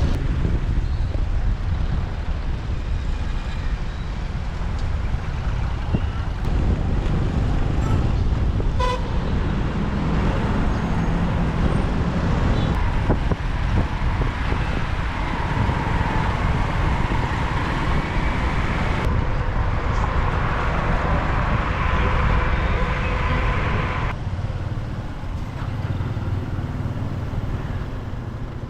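Road noise of a motorbike riding through city traffic: a steady low engine and road rumble with wind on the microphone. From about halfway a long, steady, pitched tone joins it and cuts off sharply a few seconds before the end.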